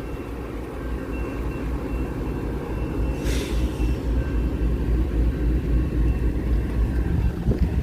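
Train running past with a steady low rumble, and a brief hiss about three seconds in.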